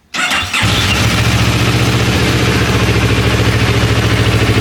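CFMoto 700MT's 270-degree-crank parallel-twin engine cranking on the starter for about half a second, then catching and settling into a steady, pulsing idle. No rattle is heard from the cowl plastics against the headlight, which a wedge of plastic now holds still.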